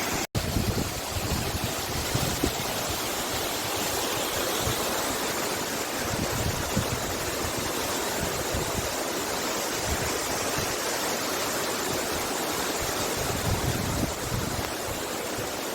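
Steady rushing of flowing water, an even hiss without a break in level, with a momentary cut-out just after the start.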